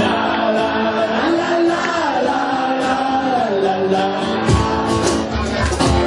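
Live rock band playing, with guitar and singing, and a drum beat kicking in about four and a half seconds in.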